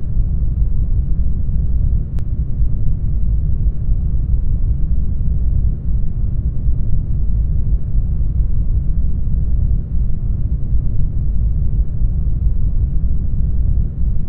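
Brown noise: a loud, steady, deep rumbling hiss with most of its energy in the bass, with a faint click about two seconds in.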